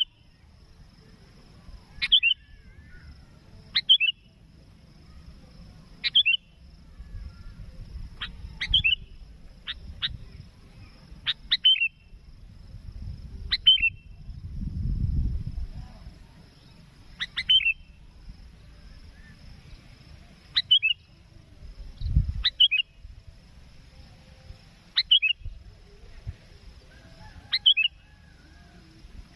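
Sooty-headed bulbul calling again and again, a short sharp falling call about every two seconds, the calls of a bird answering a rival. A faint steady high whine sits behind, and a low rumble swells briefly near the middle and again about two-thirds in.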